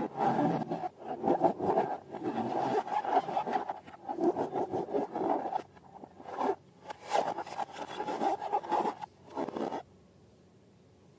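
Slime and rubber balloons being handled by hand: a run of rubbing, scraping and squishing noises with short crackles, which stops about ten seconds in.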